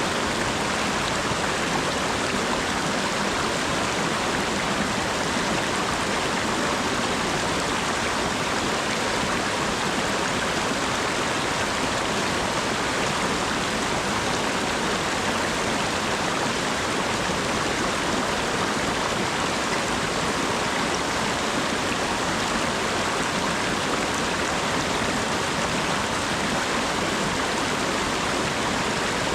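Steady rain falling, an even hiss of drops with no single drop standing out.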